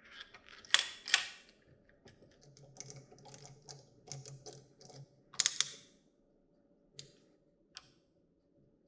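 Sharp clicks and knocks of small hard parts being handled and set down, in irregular bursts. The loudest come about a second in and again after five seconds. A faint low hum runs through the middle.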